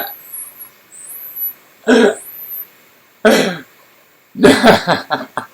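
A person coughing and clearing their throat: several short, loud coughs spaced a second or so apart, ending in a quick run of coughs. A high-pitched chirp repeats in the first half.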